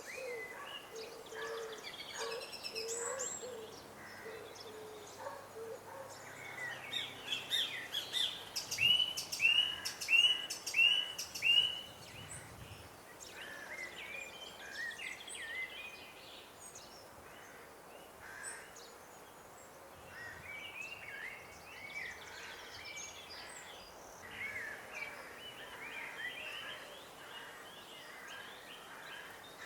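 Several songbirds singing and chirping at once over a faint steady background hum. A lower call repeats several times in the first few seconds, and about a third of the way in one bird sings a loud run of five or six quick repeated notes.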